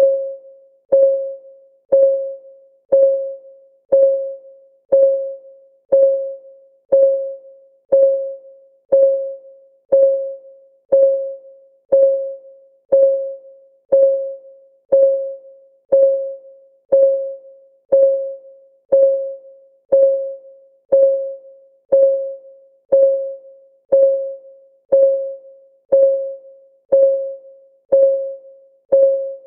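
Clock ticking sound of a countdown timer: one tick each second, steady and even, each tick a short click with a brief pitched ring that dies away quickly.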